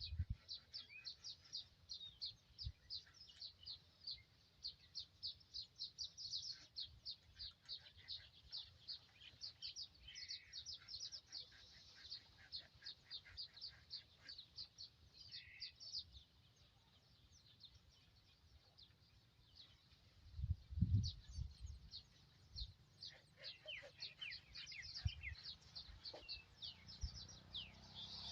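Bird chirping: a rapid run of short, high chirps at about four a second, breaking off about halfway and starting again. A few low thumps come in the gap.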